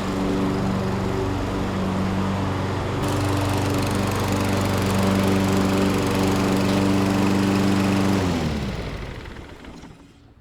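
Toro Recycler walk-behind mower's Kohler engine running steadily, then shut off a little after eight seconds in, its note dropping as it winds down to a stop.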